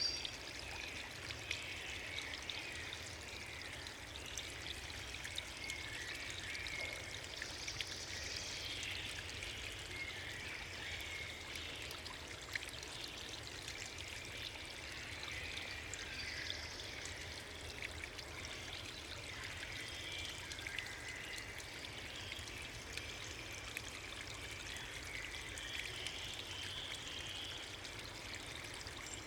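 Steady rush of flowing water, an even hiss with no change in level.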